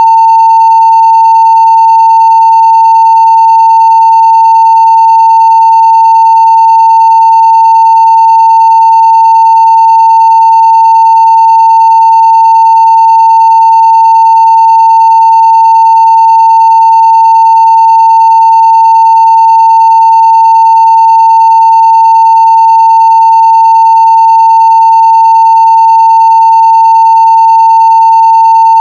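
A 900 Hz sine-wave test tone at 0 dB, steady and unbroken at full level, with faint overtones above it.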